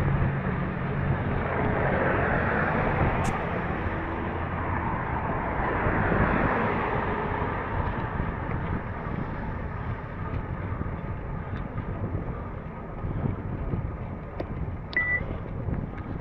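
Steady rushing road and wind noise of a moving ride, with wind buffeting the microphone and slowly easing off; a brief high beep about fifteen seconds in.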